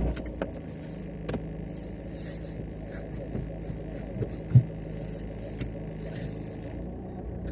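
Car engine running steadily with a low hum. A few light clicks and one louder knock about four and a half seconds in.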